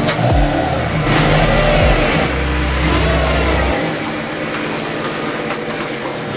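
Honda Civic's R18 four-cylinder engine running and revving, its pitch sweeping up and down in the first couple of seconds, then changing abruptly a little over halfway through. It runs on the freshly installed rod bearings, fitted to cure rod knock.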